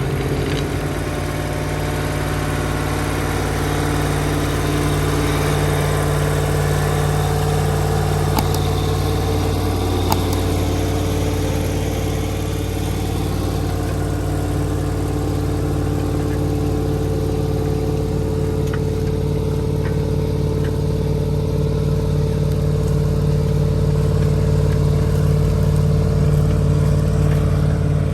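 Diesel V8 engine of a Massey Ferguson 4840 tractor running at steady revs.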